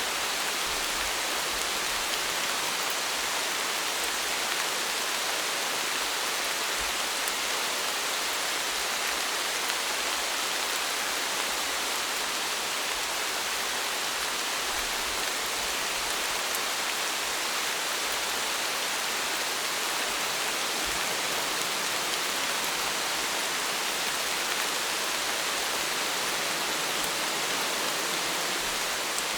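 Steady rain falling, an even hiss of many fine drops that does not rise or fall.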